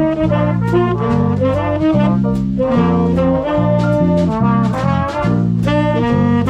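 Swing big band playing: brass and saxophone sections over a steady bass line of changing low notes, with cymbal strokes on the beat.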